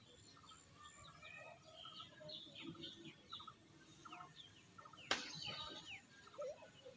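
Faint chorus of small birds chirping and calling, many short quick notes sliding up and down. A single sharp click about five seconds in.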